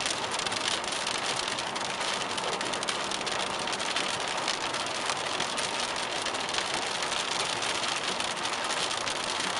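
Heavy rain pelting a car, a steady dense patter of drops heard from inside the car.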